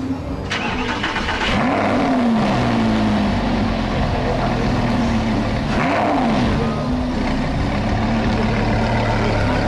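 A vehicle engine revved twice, each rev rising and falling in pitch, then settling back to a steady idle.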